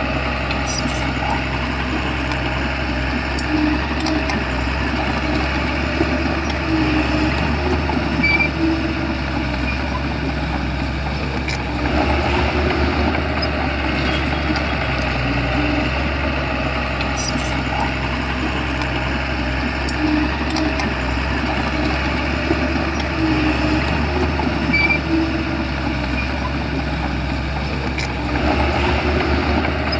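Shantui crawler bulldozer's diesel engine running steadily, with faint mechanical clicks. It gets a little louder about twelve seconds in and again near the end.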